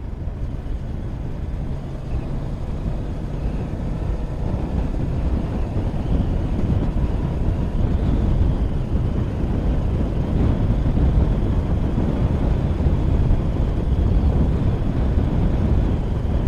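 Motorcycle running at road speed, engine hum under the rush of wind on the microphone, growing steadily louder from a few seconds in.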